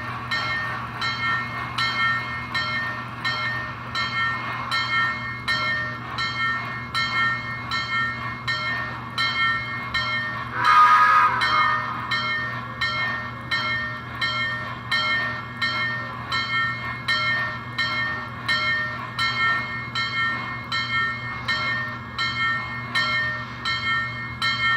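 American Flyer K5 Pacific model steam locomotive running on the track with a steady motor hum and an even chuff, about one and a half strokes a second. A louder tonal blast comes about halfway through.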